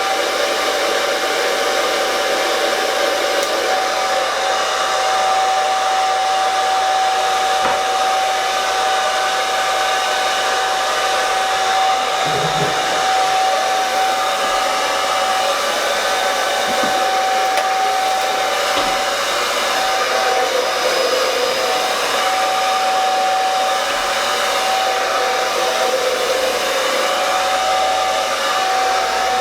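Handheld hair dryer running steadily, a high whine over the rush of air, as it blow-dries thick, wavy hair.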